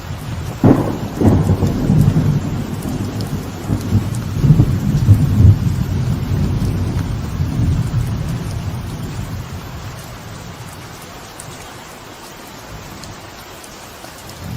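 Thunder over steady light rain falling on a veranda: two sharp cracks close together about a second in, then a rolling rumble that swells and slowly dies away, leaving the rain alone near the end.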